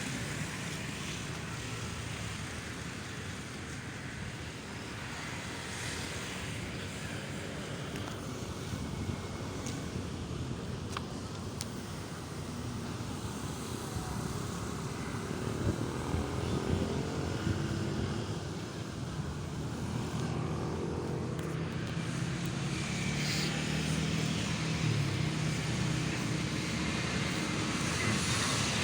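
Road traffic: vehicle engines running and passing, as a steady hum of traffic. An engine note grows louder through the second half.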